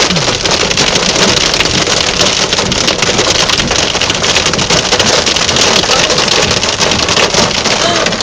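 Heavy rain pelting down in a dense, steady patter of drops, drumming on a car.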